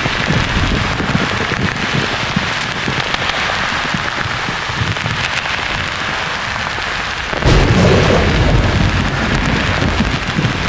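Steady white-noise hiss with thunder rumbling underneath; a louder roll of thunder breaks in suddenly about two-thirds of the way through and rumbles on.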